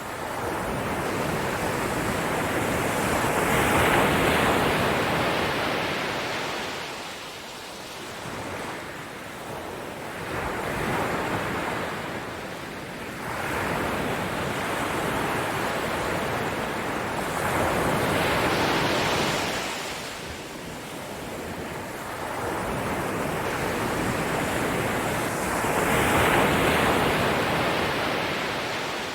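Waves washing onto a shore, the rushing surf swelling and fading in slow surges several seconds apart.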